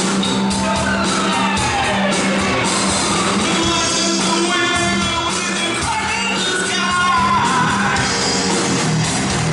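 Rock music with a singer: vocal lines sliding in pitch over a steady low bass note, loud throughout.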